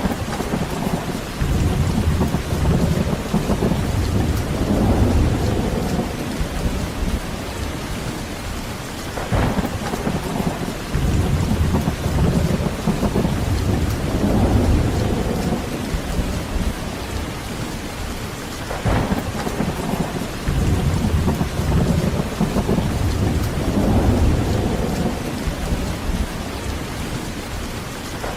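Heavy rain falling steadily, with rolling thunder: three long low rumbles, each opening with a sharp crack, about every nine or ten seconds.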